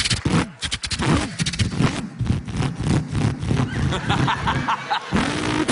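A man vocally imitating a V8 Holden Torana's engine: rapid popping pulses, then revs that rise and fall, with a rev climbing and holding near the end.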